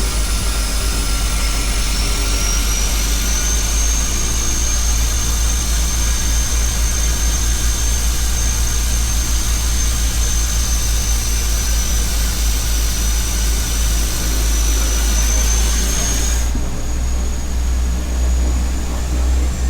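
Seaplane's propeller engines running steadily in flight: a loud, deep drone with a high whine over it that rises slightly about three seconds in. The upper hiss drops away suddenly near the end.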